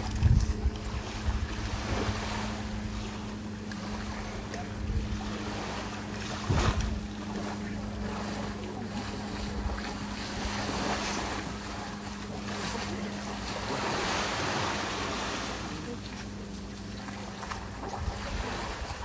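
Wind gusting on the microphone over the wash of small waves at the shore, with a steady low hum underneath that stops near the end.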